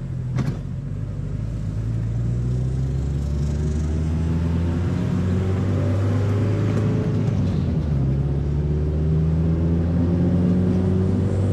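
Mazda Miata's four-cylinder engine pulling as the car accelerates, its pitch rising slowly, dropping at a gear change about eight seconds in and then climbing again. There is a short sharp click about half a second in.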